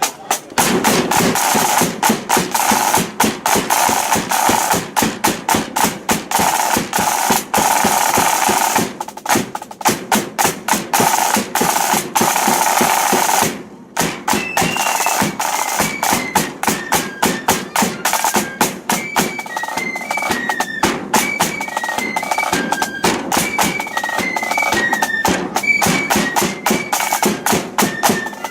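Blood-and-thunder flute band: the drum corps, led by snare drums, plays a dense, loud drumming beat, breaks off briefly about halfway, and then the flutes come in with a stepping melody over the drums.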